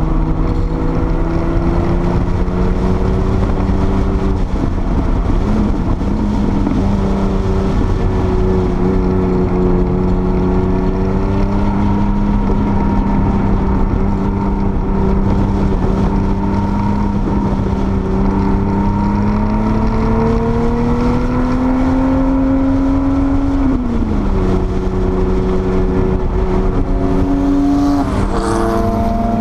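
Porsche 930 Turbo's air-cooled turbocharged flat-six pulling hard on track, heard from inside the car. The engine note holds fairly steady, climbs slowly, then drops sharply about 24 seconds in before settling again.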